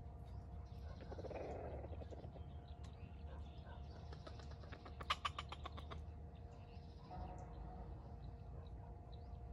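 Faint outdoor bird calls, with a short, rapid rattling call about five seconds in, over a faint steady hum.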